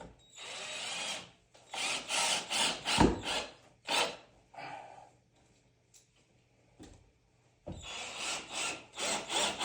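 A hand tool scraping across wood in quick back-and-forth strokes, in two runs with a lull of a couple of seconds between them, and a single knock about three seconds in.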